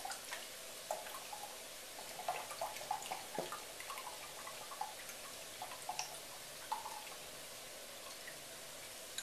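Chicken pieces frying in oil in a wok: a faint, steady sizzle with small scattered pops.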